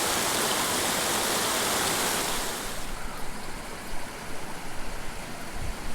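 Small mountain creek running over rocks, a steady rushing hiss that drops off and turns quieter and more uneven about three seconds in.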